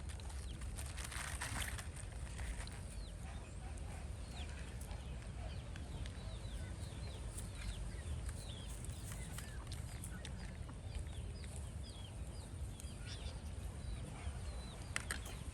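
Many short, faint bird chirps scattered over a low steady rumble.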